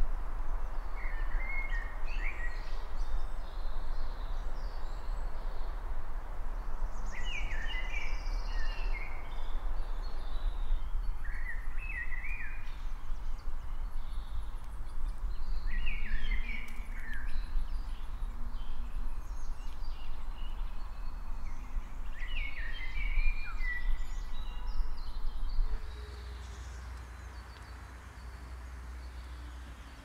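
A songbird singing a short, quick phrase about every four to five seconds. Under it runs a steady low rumble that drops away sharply a few seconds before the end.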